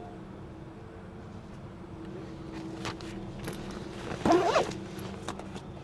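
Ford Ranger Classic diesel engine idling steadily, with a few light clicks and knocks. About four seconds in comes a short, loud, wavering high-pitched sound.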